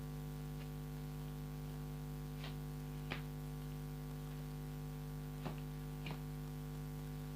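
Steady electrical hum with four faint ticks, the soft clicks of tarot cards being drawn and laid down.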